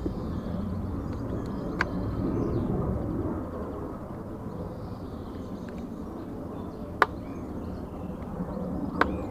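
Outdoor garden ambience: a steady low rumble with faint bird chirps, and three sharp clicks, near two, seven and nine seconds in, the middle one the loudest.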